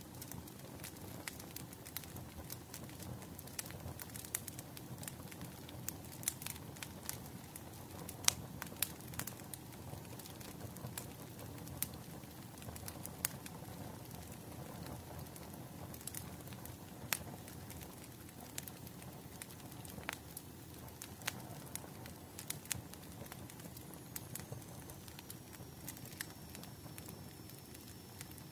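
Wood fire burning: a steady low rush with irregular sharp crackles and pops, several a second. A faint high whistle slowly falls in pitch near the end.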